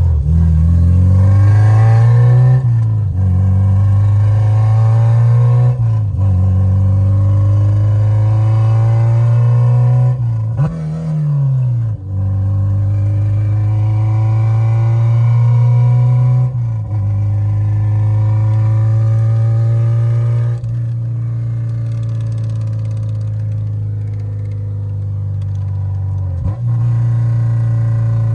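K20-swapped Honda Civic's four-cylinder engine pulling under throttle. Its pitch climbs steadily and falls back sharply about six times, every four to six seconds. The owner thinks the engine is running rich.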